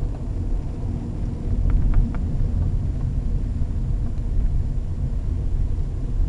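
Steady low rumble of a car driving, engine and tyre noise heard from inside the cabin, with a few faint ticks about two seconds in.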